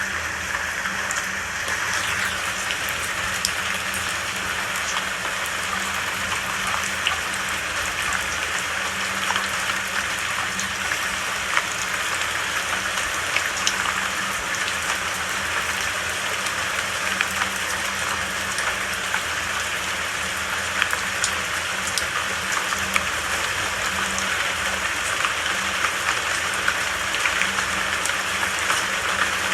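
Steady rain falling, a dense even hiss with many single drops ticking through it, over a faint low steady hum.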